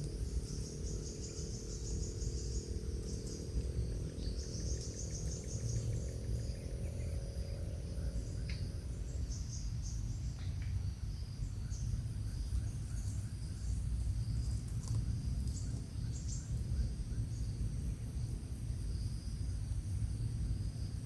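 Insects chirping in high, repeated trills over a steady low rumble of background noise, with a faint low hum that fades out about halfway through.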